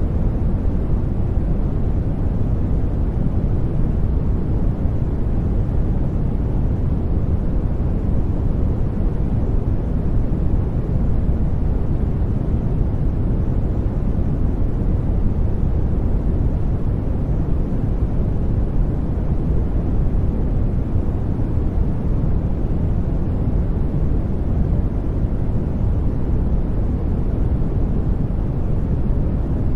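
Steady, unchanging sleep noise track, deep and muffled, with most of its energy in the low end and little hiss on top.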